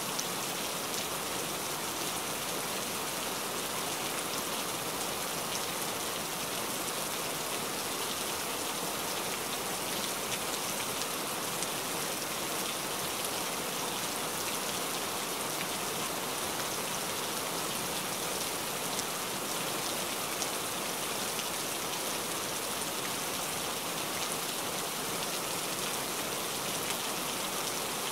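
Steady rain: an even, dense hiss of many drops.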